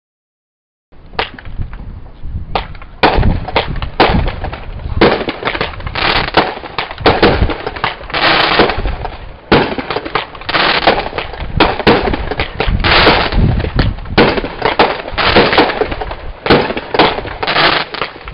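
Consumer fireworks going off in a rapid barrage. The bangs start about a second in, sparse at first, then become a dense run of overlapping bangs and crackling.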